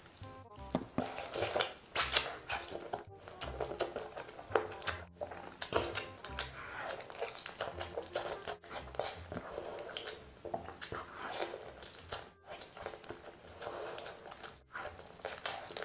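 ASMR eating sounds of juicy spiced whole chicken and rice eaten by hand: close-up chewing and wet mouth noises, with irregular short clicks and one sharp smack about two seconds in.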